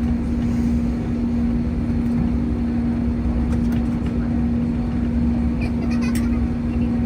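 Steady cabin noise inside an Airbus A321neo: engine and airflow rumble with a constant hum, unchanging throughout.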